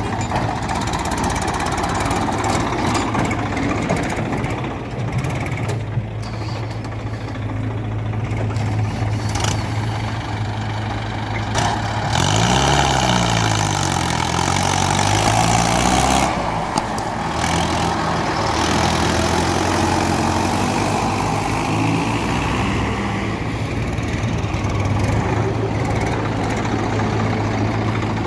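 Heavy diesel engines of an excavator and a tractor running steadily. About halfway through, the pitch of one engine swings up and down a few times as it works under load.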